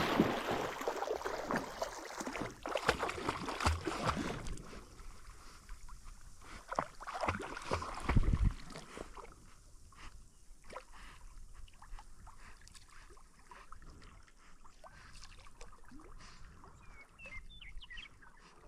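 Water splashing as a Labrador retriever goes out through the water on a blind retrieve. The splashing is loudest in the first few seconds, has one heavy splash about eight seconds in, then carries on fainter.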